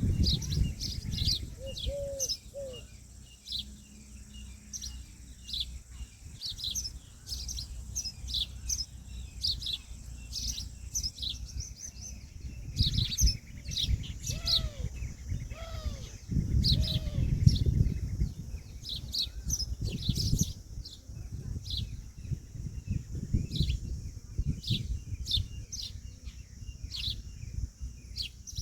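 Small birds chirping rapidly and continually. Short arched calls from an Indian peahen come in twice about two seconds in and three more times in the middle, over a low rumble that swells past the middle.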